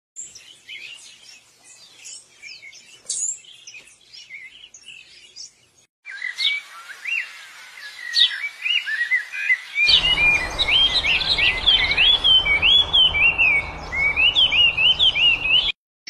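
Small birds chirping in quick, high-pitched notes. About six seconds in the sound cuts abruptly to a run of louder repeated chirps that rise and fall in pitch, and a low steady hum joins them about ten seconds in.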